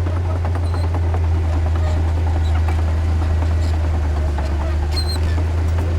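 Heavy diesel earthmoving machine engine running steadily with a deep, even drone that does not change in pitch. A brief high chirp comes near the end.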